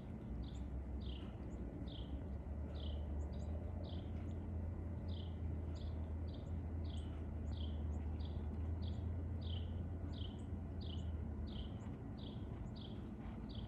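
A bird repeating a short, down-slurred call about twice a second, with a brief pause partway through, over a steady low rumble.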